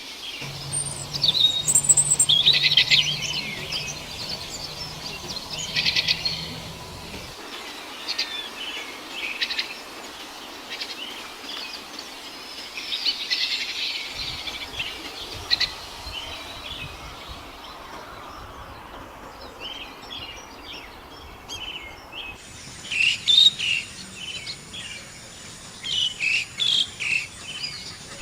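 Songbirds chirping and trilling in quick, overlapping phrases, with a steady background hiss. A faint low hum sits under the first several seconds, and the background changes abruptly twice, like separate recordings joined together.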